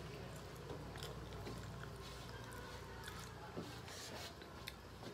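Soft chewing and lip-smacking of people eating rice and curry by hand, with small clicks of fingers against brass plates, over a steady low hum.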